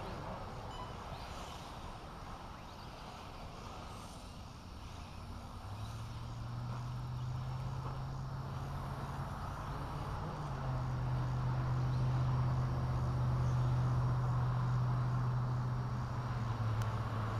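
An engine hum comes in about five seconds in and grows louder, holding a steady pitch with a small step up around the middle.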